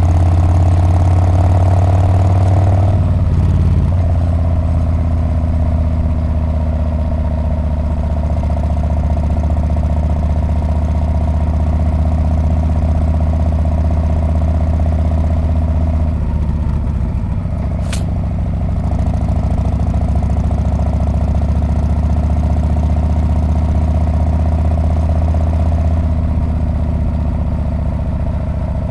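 Harley-Davidson Street Bob's V-twin engine running steadily through its exhaust while riding, its note changing briefly about three seconds in and again a little past halfway. A single sharp click sounds about two-thirds of the way through.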